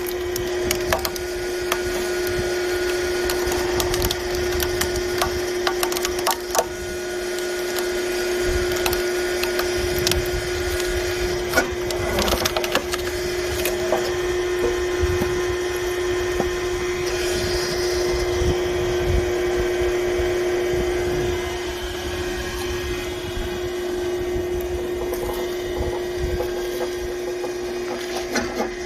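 Hydraulic log splitter running with a steady hum while logs are forced apart, the wood creaking, cracking and splintering as it splits.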